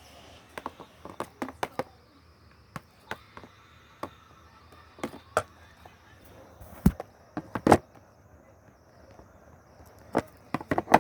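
Irregular sharp clicks and knocks of hard parts being handled and fitted together by hand. The two loudest knocks come about seven seconds in, and a quick run of clicks comes near the end.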